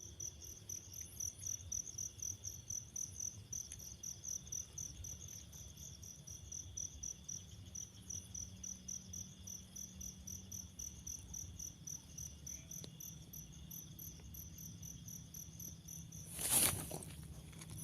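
Night insects chirping in a fast, steady pulse of high chirps, about four to five a second. A brief loud rustle comes near the end.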